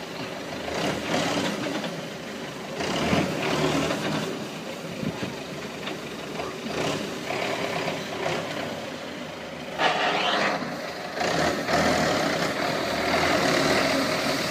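Road traffic noise: vehicle engines and tyres rising and falling, with a few sudden louder moments.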